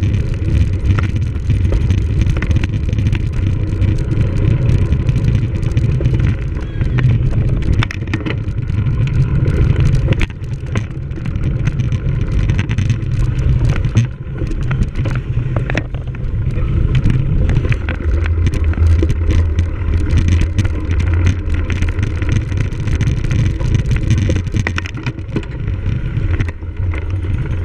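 Wind rumbling over the microphone while a cyclocross bike rides a race course, with frequent clicks and knocks from the bike rattling over rough ground.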